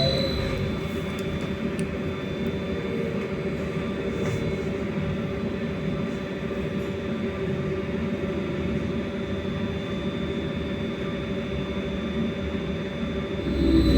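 Inside a BKM-43300D trolleybus on the move: a steady low rumble with a constant electric hum and high whine. Near the end a whine falls in pitch as the electric traction motor winds down.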